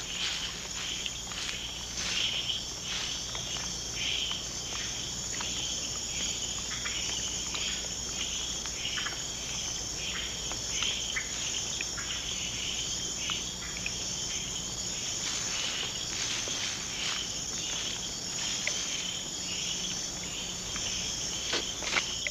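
Rainforest insect chorus: a steady high trilling, with many short chirps or clicks scattered through it and one sharper click near the end.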